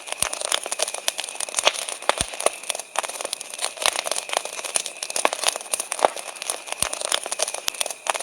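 Wood fire crackling, with a steady stream of sharp snaps and pops and a few louder cracks.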